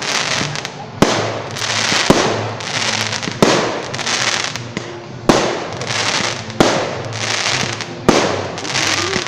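Fireworks display: aerial shells bursting with sharp bangs about every one to two seconds, six in all, each followed by a long crackling hiss of the falling stars that fades out.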